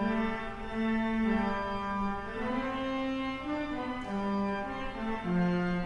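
Organ postlude playing: a slow melody of sustained notes changing about every half second.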